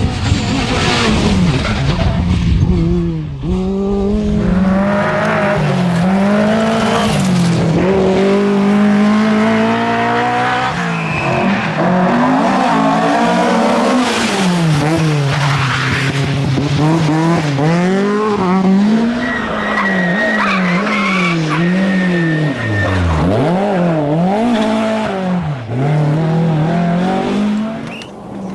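Rally car engine worked hard through a stage, its pitch repeatedly climbing and dropping sharply as the driver accelerates, shifts and lifts for corners.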